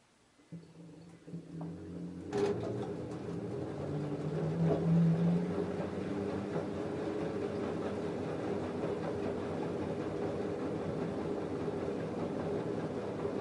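LG F10A8HDS5 washing machine starting up again after a pause in a cotton wash cycle. A hum begins about half a second in and there is a click after about two seconds; the machine then runs with a steady mechanical hum that builds slightly and holds.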